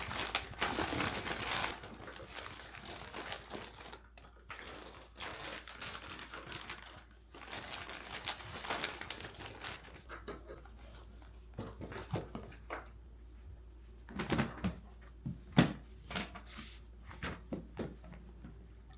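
Rustling and crinkling, like packaging being handled, for roughly the first half, then a run of light knocks and clicks from handling objects.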